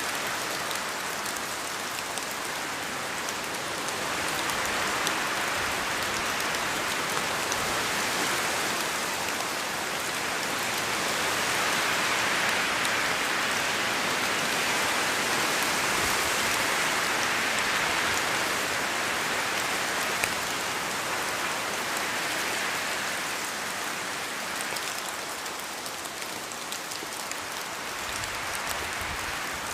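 Steady rain falling in a forest as an even hiss, swelling louder around the middle and easing a little near the end.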